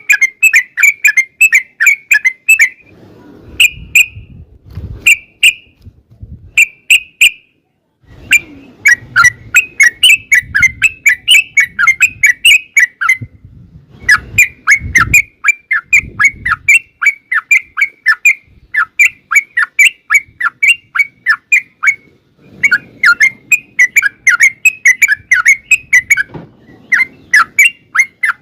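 Yellow-vented bulbul singing long runs of rapid, bubbly chattering notes, broken by a few short pauses and separate brief phrases.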